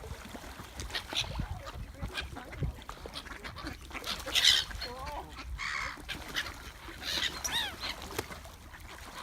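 A flock of birds calling as they compete for thrown bread: repeated short squawks, several with a rising-and-falling pitch, the loudest about four and a half seconds in.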